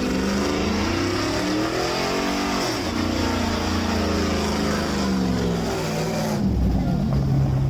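Car engine revving hard at high rpm, its pitch climbing and dropping several times over a loud steady hiss. It cuts off abruptly at the end.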